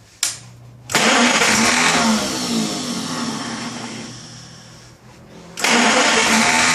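1933 Chevrolet engine turning over on the starter motor without catching: a click, then a burst of cranking about a second in that fades off, and a second burst of cranking starting just after halfway.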